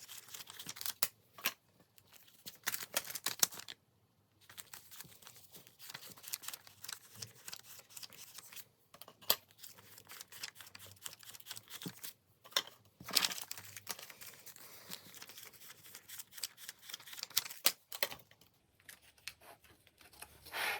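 Paper rustling and crinkling with irregular sharp snaps: banknotes and cash-budget envelopes being handled.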